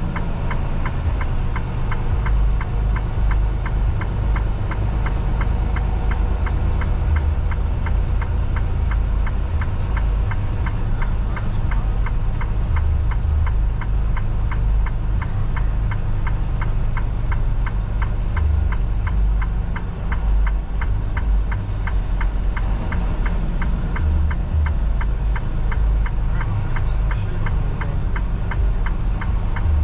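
Semi-truck diesel engine running steadily, heard inside the cab as a low rumble, with a steady rapid ticking of about three clicks a second.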